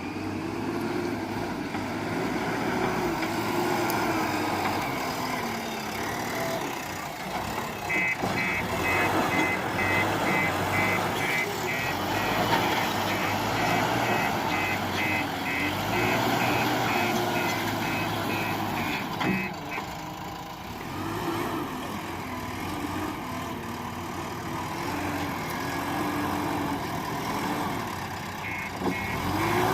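JCB 4DX backhoe loader's diesel engine running and revving up and down as it works. Its reversing alarm beeps rapidly for about ten seconds in the middle and starts again near the end.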